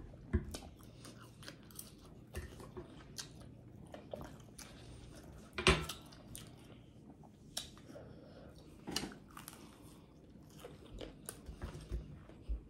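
Close-miked eating of a breaded fried pork chop: biting, crunching and wet chewing with mouth smacks, in irregular bursts, the loudest bites about six seconds in and again near nine.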